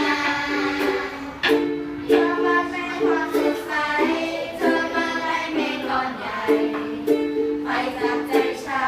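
Ukulele strumming chords in a steady rhythm, the chord changing every second or so.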